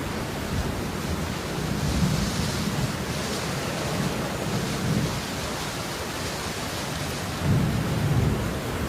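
Steady falling rain, an even hiss, with low rumbling swells that rise loudest about seven and a half seconds in.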